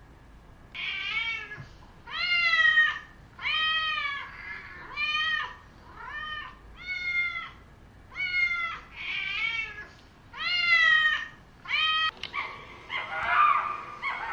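A cat meowing over and over, about ten meows roughly a second apart, each rising and then falling in pitch. Near the end the calls blur into a rougher, overlapping jumble.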